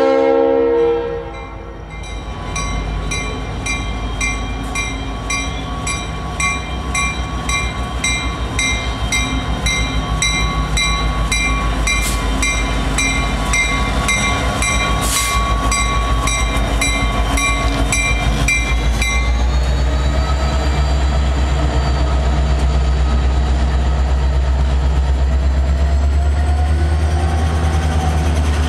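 A diesel freight train's horn chord ends about a second in. A bell then rings steadily about twice a second as the Norfolk Southern locomotives draw up and pass, with one sharp bang about halfway, and stops about two-thirds of the way through. After that a heavy low rumble of the passing locomotives and freight cars carries on.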